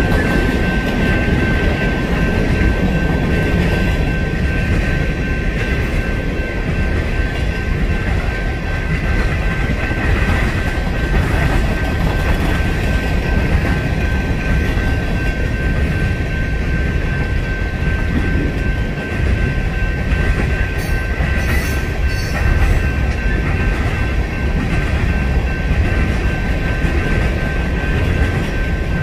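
Freight train of coal hopper cars rolling steadily past, the wheels and cars making a continuous low rumble. A steady high-pitched tone runs over it throughout.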